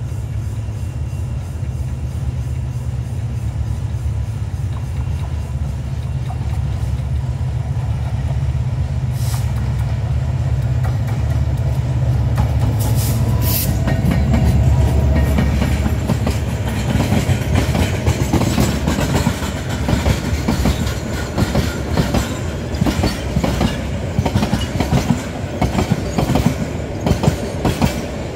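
Hyundai Rotem diesel-electric locomotive passing with a heavy low engine rumble that builds for the first half. From about halfway on, the wheels of the oil tanker wagons clack over the rail joints in a quick, uneven rhythm.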